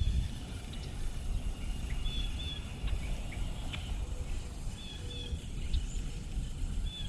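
Birds calling in short, high chirps, several times, over a steady low rumble.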